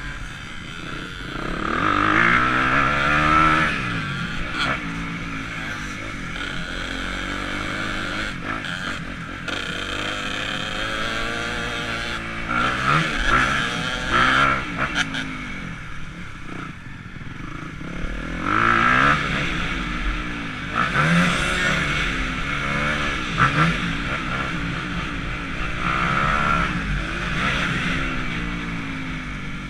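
Motocross dirt bike engine revving up and down as it is ridden, the pitch climbing through each gear and dropping off several times.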